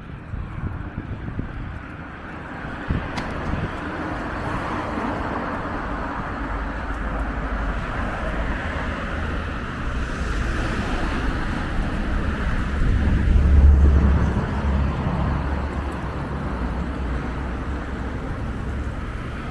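City street traffic noise with wind buffeting the microphone, swelling into a louder low rumble about two-thirds of the way through.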